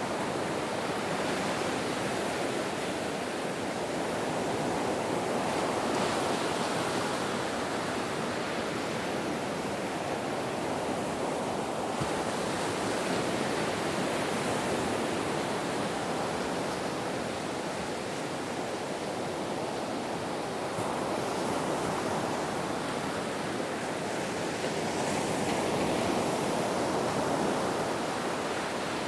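Ocean waves washing in a steady, even rush that swells and eases slowly every several seconds.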